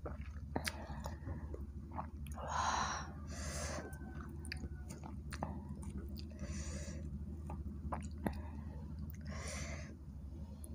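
Close-miked chewing of bakso meatballs and rice noodles, wet mouth sounds with a few soft noisy swells, broken by light clicks as the wooden spoon and chopsticks work in the bowl.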